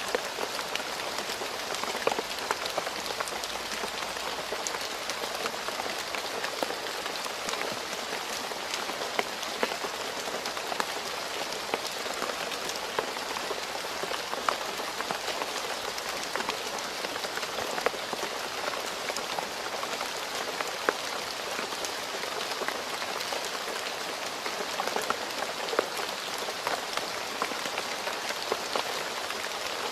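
Steady rain falling on a paved road, a constant hiss of rain with many individual drops pattering and splashing.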